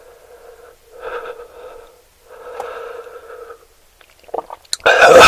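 Close-miked eating and mouth sounds: several stretches of soft, noisy mouth sound, then a very loud burst near the end.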